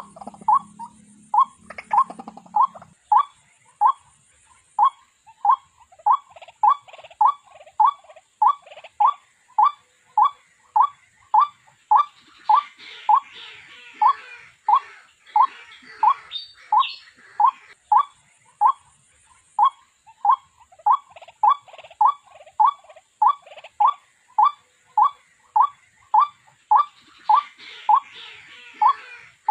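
White-breasted waterhen calling: one short note repeated evenly, about one and a half times a second, a lure call used for trapping the bird.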